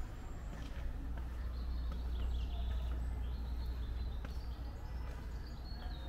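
A small songbird chirping in short, quick phrases from about a second and a half in, over a steady low rumble.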